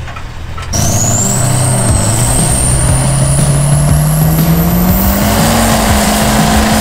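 Vehicle engine under acceleration, starting abruptly about a second in. Its pitch climbs steadily over several seconds, with a high whine rising alongside it.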